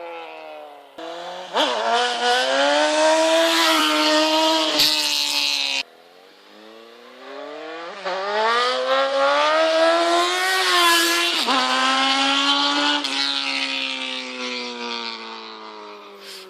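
2001 Honda CBR929RR Fireblade's inline-four engine revving hard in two runs past. The first rises in pitch and cuts off suddenly about six seconds in. The second climbs in pitch, breaks briefly near twelve seconds in, then drops in pitch and fades as the bike passes and goes away.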